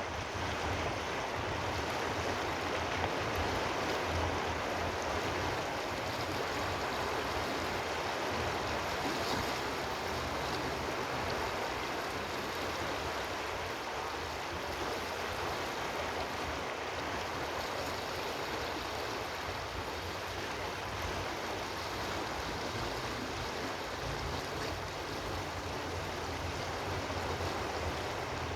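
Flowing water rushing steadily, with a low rumble underneath and no change in loudness.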